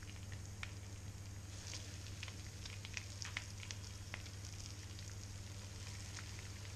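Floured lamb sweetbreads sizzling in hot butter and oil in a frying pan, with frequent small crackles and pops over a steady low hum.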